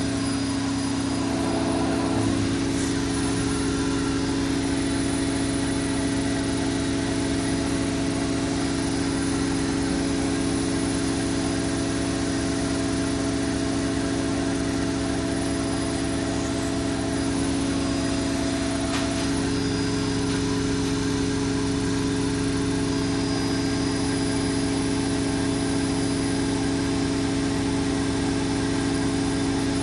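Zanussi Lindo 100 washing machine in its final spin at high speed, up to 1400 rpm, the motor giving a steady hum with a constant tone.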